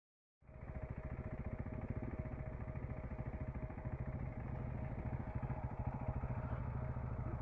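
Single-cylinder engine of a KTM 390 Enduro R motorcycle running steadily with an even beat, not revving. It starts abruptly about half a second in.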